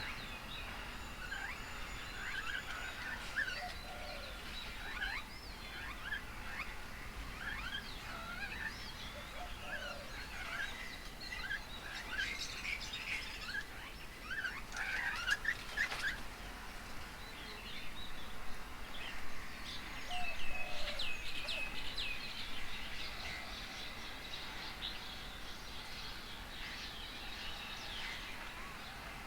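Several birds chirping and calling over one another in short, quick notes, busiest about halfway through and again a few seconds later.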